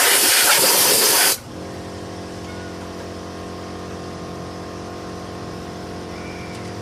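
A high-pressure spray gun hissing loudly, cut off suddenly about a second and a half in, leaving a steady machine hum running under it.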